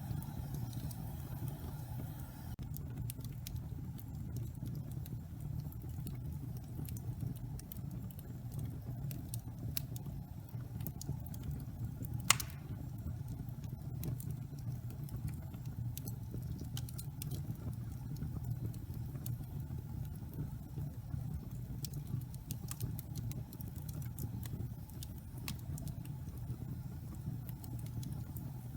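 Log fire burning in a fireplace: a steady low rumble from the flames with scattered small crackles, and one loud pop about twelve seconds in.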